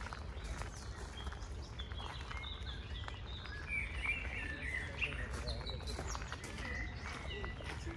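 Songbirds chirping and warbling in short phrases, busiest in the middle, over a steady low rumble.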